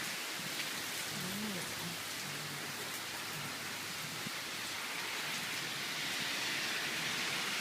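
Rain falling steadily, getting a little louder near the end.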